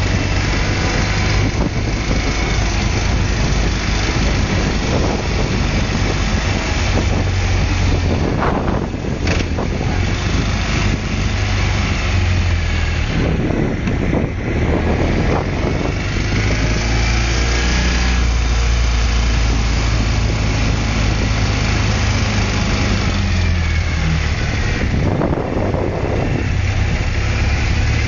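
BMW motorcycle-and-sidecar combination under way: its engine running steadily, the note rising and falling with speed, over a constant rush of road and wind noise.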